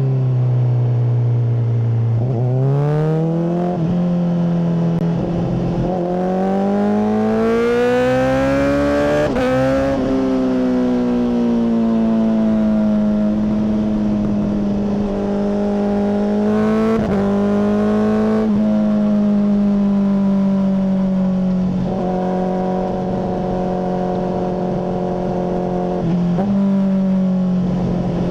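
Honda CBR600RR inline-four through a MIVV full exhaust, ridden: the engine revs rise twice in the first ten seconds, with short breaks in the note, then hold a nearly steady engine speed with a few brief dips.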